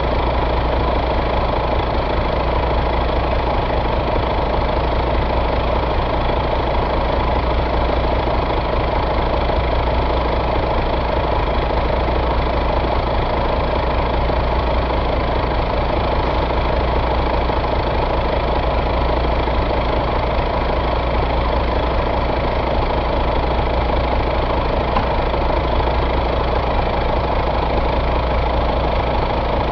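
2014 Volvo D13 inline-six diesel engine idling steadily, with an even low hum and no change in speed.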